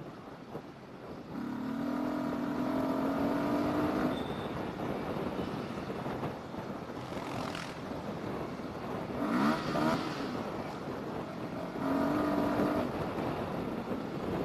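Yamaha R15 V3's 155 cc single-cylinder engine pulling in third gear as the motorcycle accelerates, over a steady rush of wind and road noise. Its note swells and rises slowly about two seconds in, wavers briefly near ten seconds, and comes up again about twelve seconds in.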